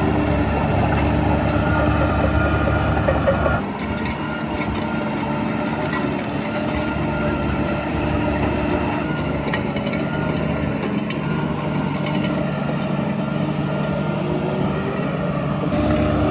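Heavy diesel engine of earthmoving equipment running steadily with a low rumble and engine hum. The sound drops and changes tone abruptly about three and a half seconds in, and changes again near the end.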